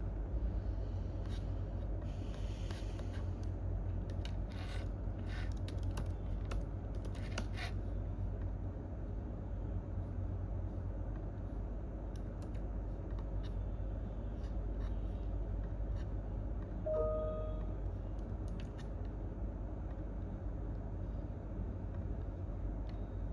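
Computer keyboard typing: clusters of key clicks in the first eight seconds, then scattered single clicks, over a steady low hum of room noise. A brief pitched tone sounds just past the middle.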